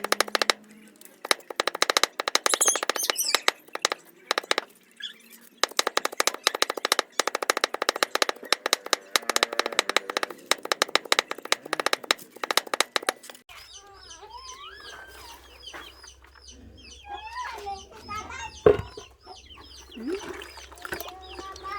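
A rapid clatter of sharp clicks and knocks comes in runs with short pauses. About two-thirds of the way through it gives way to birds chirping over and over and chickens calling.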